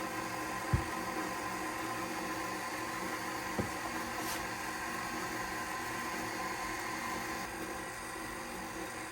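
Electric kitchen mixer running steadily with a humming motor, mixing molasses into sugar to make brown sugar. Two short low knocks come about a second in and again over three seconds in.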